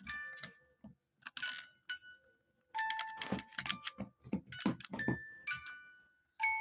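Irregular sharp clinks of small hard objects, each ringing briefly with a bell-like tone, sparse at first and coming thick and fast from about halfway in.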